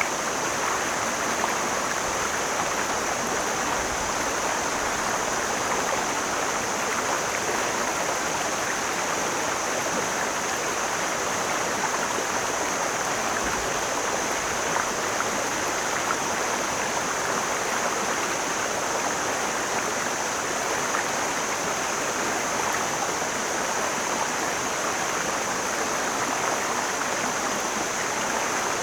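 Mountain stream running steadily, an even, unbroken sound of flowing water.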